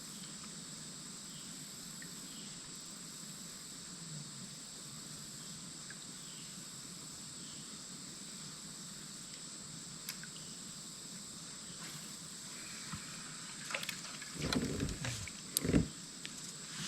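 Creek ambience: a steady high-pitched insect drone, with a couple of water splashes near the end.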